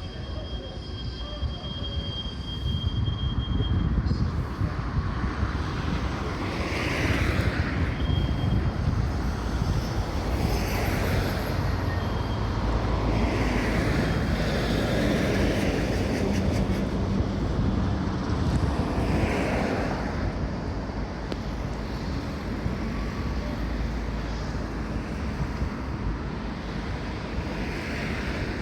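Tram running along the tramway: a continuous low rumble of wheels on rail, with a thin, high wheel squeal in the first few seconds.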